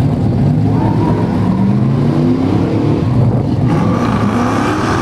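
Car engine revving hard during a burnout. Its pitch climbs, falls back about three and a half seconds in, then climbs again.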